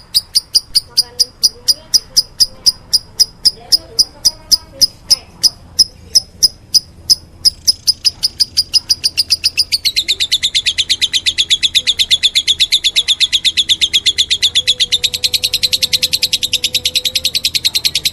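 Lovebird chick begging to be fed, giving shrill chirps about four a second. About ten seconds in these change to a faster, slightly lower, continuous run of chirps.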